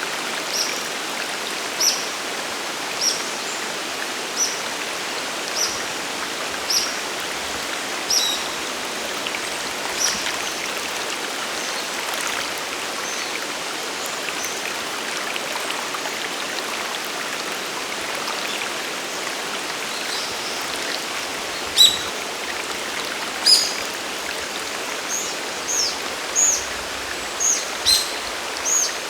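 Steady rush of a mountain waterfall and stream. Over it, a bird repeats a short high call about once a second for the first ten seconds, and louder, varied high bird calls come over the last seven seconds.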